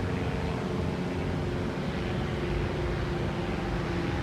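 Steady engine drone, an even hum with a few faint held tones under a noisy wash.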